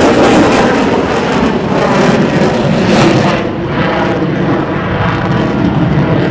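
Display aircraft engine noise, loud and continuous as a plane flies past; the hissing top end drops away about three and a half seconds in, leaving a duller rumble.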